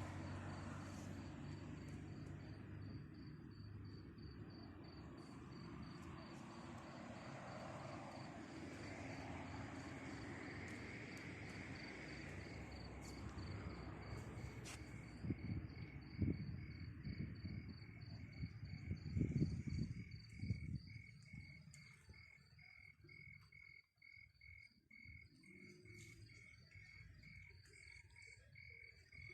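Crickets chirping in a steady pulsing trill, with a second, lower-pitched cricket joining about halfway. Under them is a low rumble, with a run of louder low thumps about two-thirds of the way through.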